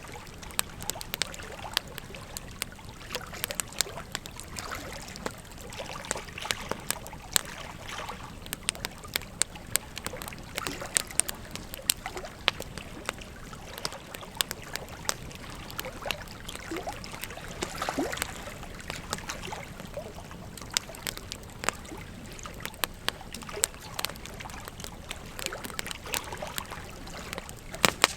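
Wood fire crackling, with frequent irregular sharp pops, over the steady rush of flowing river water.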